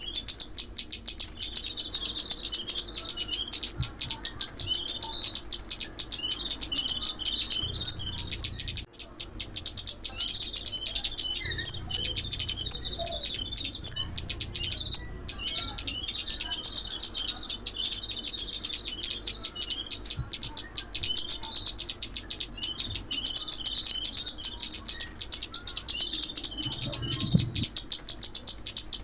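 Sunbird song: a fast, high-pitched twittering that runs on almost without a break, with short pauses about nine and fifteen seconds in.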